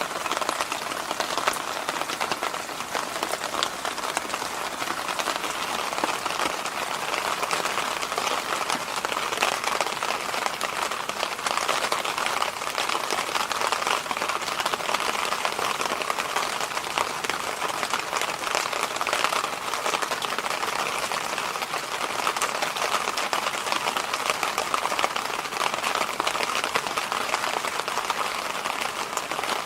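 Electric fan running steadily: an even rush of moving air that holds level without pauses or changes.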